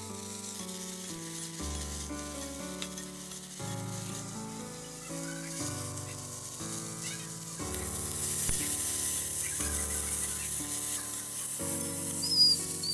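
Cubed pointed gourds sizzling in hot oil in a steel kadai while being stirred, the sizzle growing stronger about eight seconds in, with a brief louder sound near the end. Background music with changing notes plays under it throughout.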